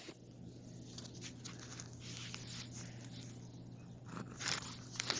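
Faint scuffling and small taps of cats play-fighting, a little louder about four seconds in, over a low steady hum.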